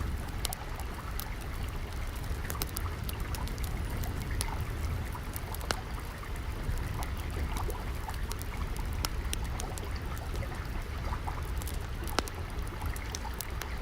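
Flowing, trickling water with a low rumble beneath it, overlaid by a wood fire crackling in scattered sharp pops.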